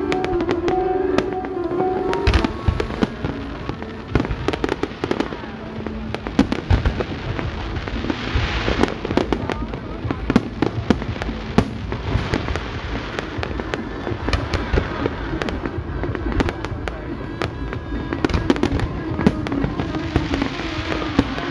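Aerial fireworks display: many irregular bangs and pops, with a stretch of dense crackling about eight seconds in, over music from the show.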